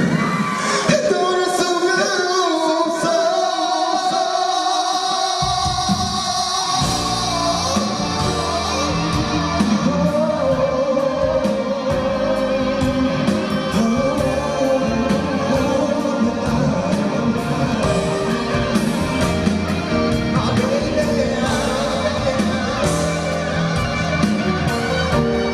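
Live concert recording of a male pop singer's voice singing a melody over light backing. About five seconds in, a full band with bass and drums comes in.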